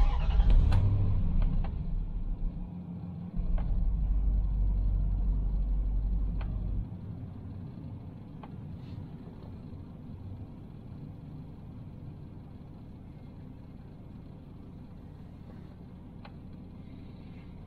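The 2003 Dodge Durango's engine starts and runs with a low rumble, dropping to a quieter steady idle about seven seconds in.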